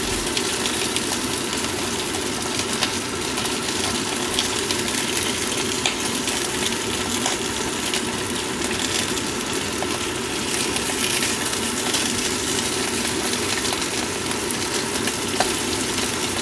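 Sausages frying in a pan on the stove: a steady sizzle full of small crackles and pops, over a steady low hum.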